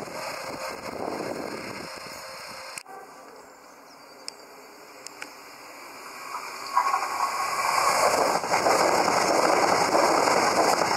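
Passenger train approaching and passing close by at speed. Its wheel and rail noise swells from about two-thirds in to a loud rush to the end. Before that, the fading noise of another train cuts off suddenly about a quarter in.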